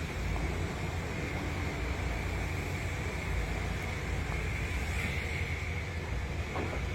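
Automatic car wash machinery running steadily as a Sprinter van goes through the wash: a continuous low rumble with a hiss over it.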